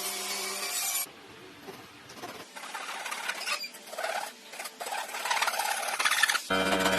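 Irregular scraping and rubbing strokes on wood, like hand rasping or sanding. A power tool's motor whines steadily for the first second and starts up again near the end.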